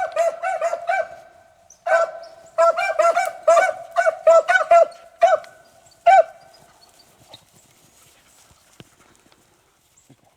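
Beagles baying on a rabbit's scent: a fast string of short, pitched barks that stops about six seconds in.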